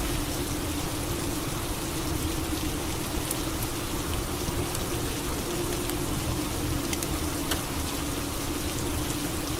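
Steady rain falling, with a few sharp drip ticks, over a low steady hum.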